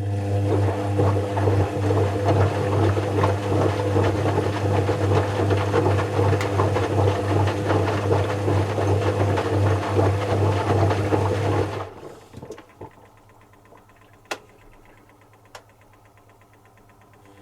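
Zanussi FC1000 compact washing machine's motor turning the drum with a steady hum for about twelve seconds, then stopping, with a few sharp clicks during the pause, and starting up again near the end: the run-pause-run rhythm of a wash cycle.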